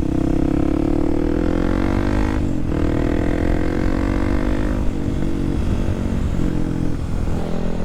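Kawasaki KLX300SM's single-cylinder four-stroke engine under acceleration. Its pitch climbs, drops at an upshift about two and a half seconds in, climbs again, and drops at a second upshift near five seconds, then holds steadier.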